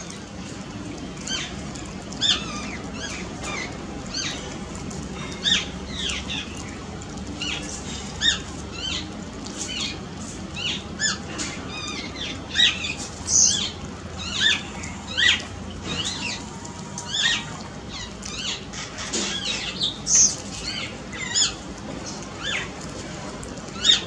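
Birds calling: a steady stream of short, sharp chirps and squawks, several a second, with some louder ones standing out.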